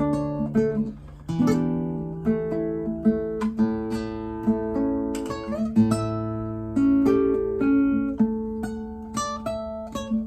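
Classical guitar played solo, a copy of the Torres FE-18: plucked notes ringing over held bass notes, with a short pause about a second in.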